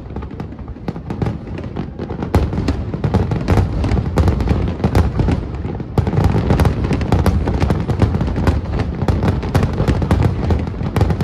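Aerial fireworks bursting in quick succession, many overlapping bangs over a continuous low rumble. The bangs thicken about two seconds in and again about six seconds in.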